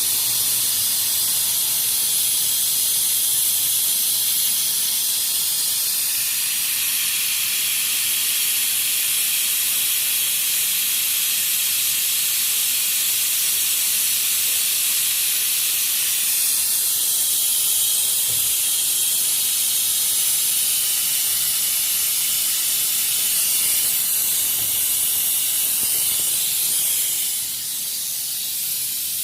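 A high-pressure jet hissing steadily, with a short drop in level near the end.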